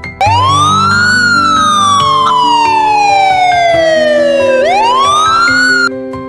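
A siren-like wail laid over gentle background music. It rises quickly, falls slowly for about three and a half seconds, rises again, then cuts off suddenly about a second before the end.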